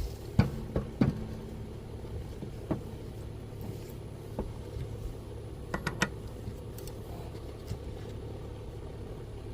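A few short metallic clicks and knocks from tools and a mower blade being handled, including a quick cluster about six seconds in, over a steady low hum.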